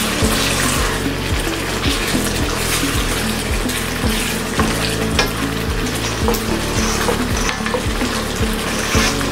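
Chopped tomatoes and onions sizzling as they fry in a pot, a steady hiss. Background music with a steady beat runs underneath.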